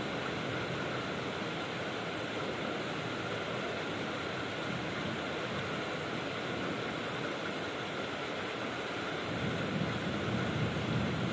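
Heavy rain pouring in a thunderstorm, a steady hiss, with a low rumble swelling near the end.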